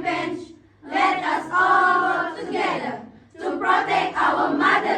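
A group of young voices in unison, chanting in sung phrases with short breaks between them.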